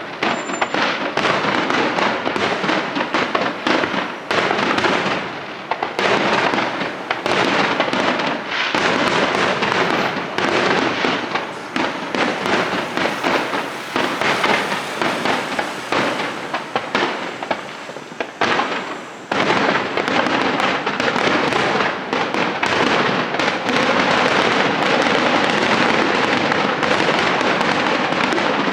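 Fireworks display: aerial shells bursting in a rapid, near-continuous stream of bangs and crackles, easing briefly about nineteen seconds in before picking up again.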